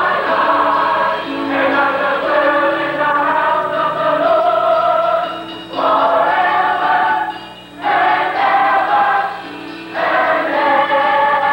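Gospel choir singing long held chords, with three short breaks between phrases in the second half.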